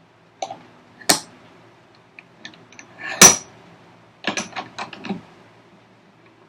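Several sharp wooden knocks and clatters from workpieces and tools being handled on a workbench, the loudest just after three seconds in, followed by a quick run of light taps.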